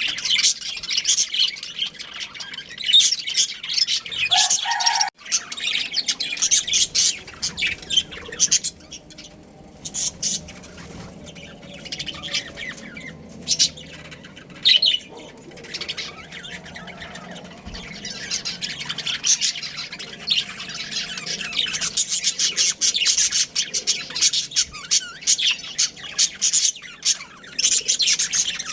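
Budgerigars chattering and chirping in rapid, high warbles, with busier stretches near the start and in the last third.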